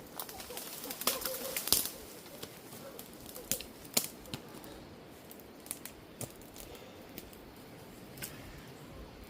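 Crackling and snapping of twigs and woody debris, thickest about one to two seconds in, then scattered sharp clicks with no chainsaw running.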